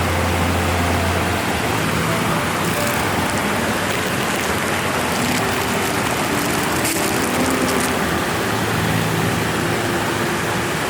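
Steady rushing hiss like rain or running water, with soft sustained background-music notes changing pitch slowly beneath it.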